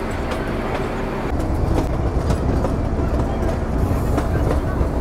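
Narrow-gauge diesel train running, heard up close beside the locomotive: a steady engine rumble with wheels clicking over the rail joints. The low rumble grows heavier about a second in.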